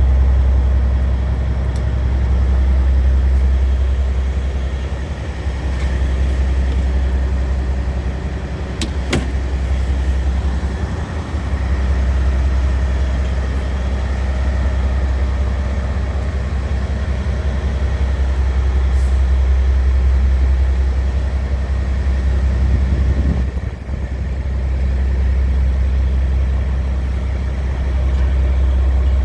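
Scania R tractor unit's diesel engine idling steadily, with a single sharp click about nine seconds in.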